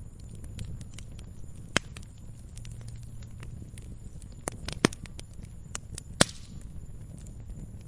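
Wood fire burning in a fireplace: a steady low rumble of flames under constant small crackles, with three sharper, louder pops, near 2 s, 5 s and 6 s in.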